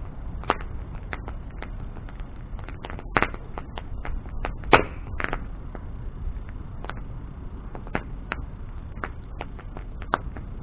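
Wood bonfire crackling and popping irregularly over a low steady rumble of burning, with one sharper, louder pop just under five seconds in.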